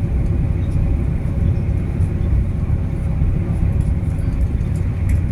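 Passenger train in motion: a steady low rumble of running noise.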